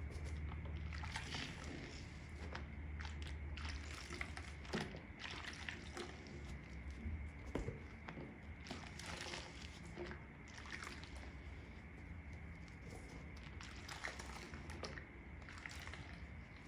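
Makeup sponge being squeezed and worked in soapy water: irregular wet squelches and sloshing, over a steady low hum.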